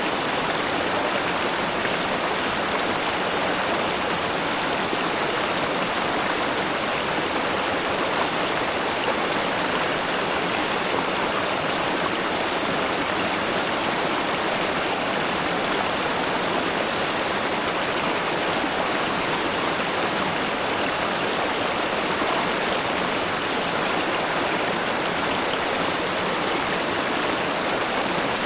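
River water flowing steadily over stones, a constant rushing babble.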